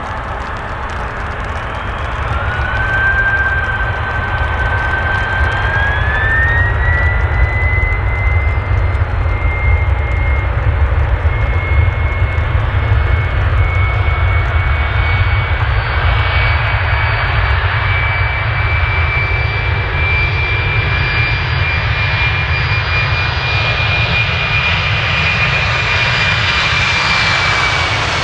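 Boeing 767-300 jet engines running, with a whine that climbs in pitch over a few seconds and then holds steady and high over a deep, steady rumble.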